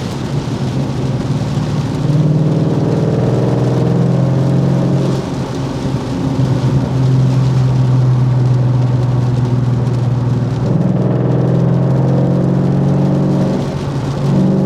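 Coyote 5.0 V8 of a 2014 Ford Mustang GT with an aftermarket exhaust, droning steadily while cruising in one gear, heard from inside the car. The note eases off briefly twice, about a third of the way in and near the end.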